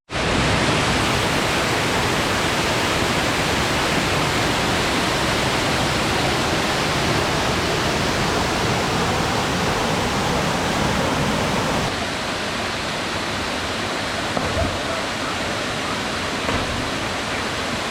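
Waterfall: a steady rush of falling water, a little quieter from about twelve seconds in.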